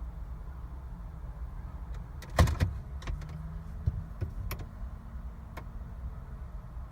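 Clicks and clunks inside a car, with one sharp loud cluster about two and a half seconds in and a few lighter clicks after it, over a steady low rumble.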